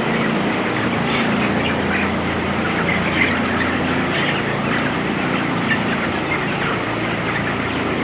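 A house full of broiler chickens calling in many short, overlapping chirps and clucks over the steady hum of tunnel ventilation fans.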